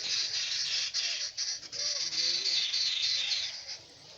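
Birds chattering in a dense, high-pitched chorus with quick warbling notes, dropping away shortly before the end.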